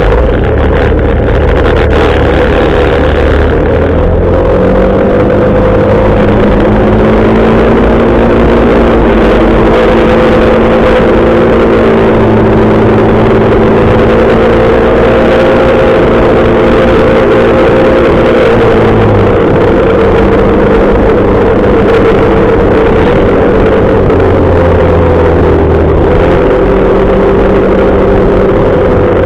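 Motorcycle engine running while riding, over a steady rushing noise. Its pitch steps up a few seconds in, holds, and drops back about two-thirds of the way through.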